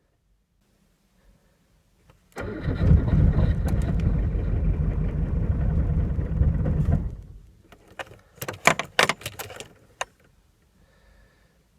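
Diesel car engine being started in deep frost: a loud burst of cranking and running for about four and a half seconds that then dies away, followed by several sharp clicks.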